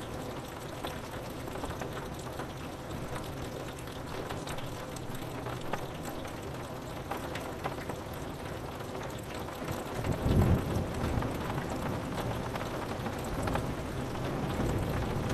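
Steady rain pattering on window glass, with a low rumble of thunder swelling up about ten seconds in and starting again near the end.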